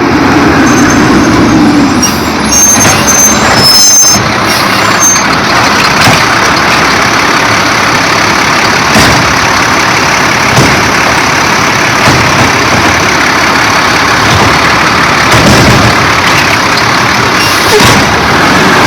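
Garbage truck running loud and close, a steady heavy mechanical noise with a few brief high squeals a few seconds in.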